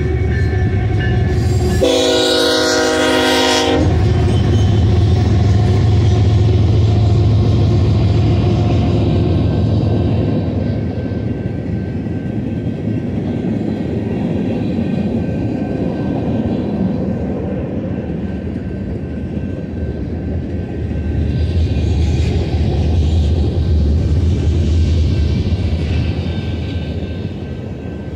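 Freight train passing: a locomotive horn sounds one blast of about two seconds near the start, then the diesel locomotives run with a steady low rumble over the rolling noise of wheels on rail. The rumble swells again about twenty seconds in.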